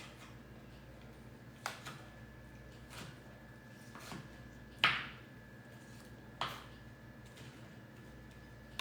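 A few separate knocks and taps of a kitchen knife on a cutting board while a tomato is cut, about five in all, the loudest about five seconds in.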